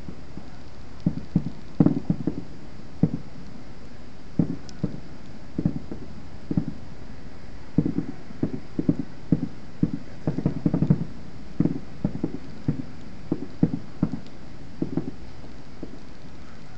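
Fireworks going off in an irregular run of dull thuds, several a second at their thickest, about eight to eleven seconds in, over a steady hiss.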